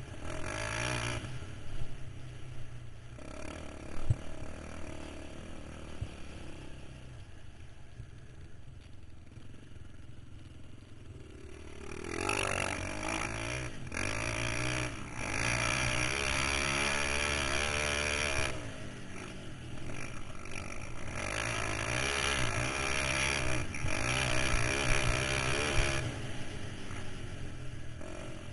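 KTM 525 XC quad's single-cylinder four-stroke engine running at low revs for the first several seconds, with a couple of sharp knocks, then revving up and down repeatedly under riding.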